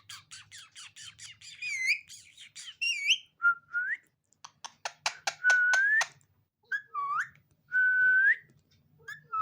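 Indian ringneck parrot giving a rapid run of clicks and chatter, then a series of whistled notes, several held and sliding upward at the end, with bursts of clicking between them.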